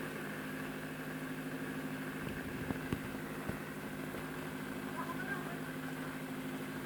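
A motor running steadily with a low, even hum, with a few light knocks about halfway through.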